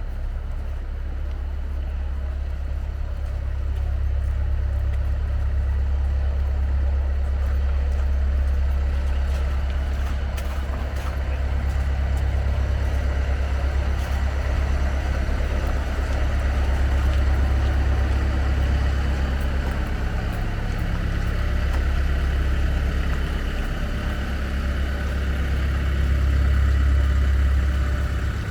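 Road traffic in a city street: a steady, heavy low rumble of vehicle engines with a constant hiss over it.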